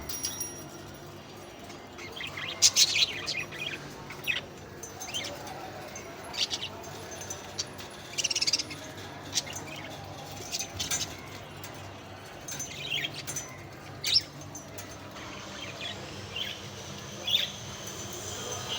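Pet budgerigars chirping and calling: short, scattered chirps throughout, with a faint steady hum underneath.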